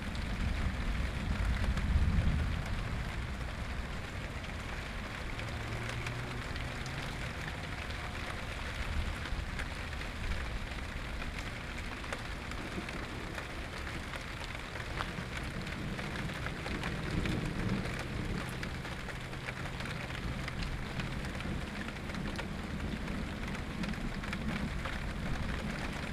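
Steady rain falling, with a low rumble of thunder that fades away over the first two seconds or so.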